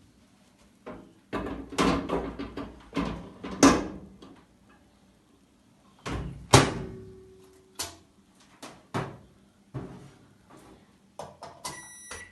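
Microwave oven being loaded: clatter and knocks of the glass turntable plate and the oven door, with one louder knock and a brief ring about halfway through. Near the end a short electronic keypad beep as the timer is set.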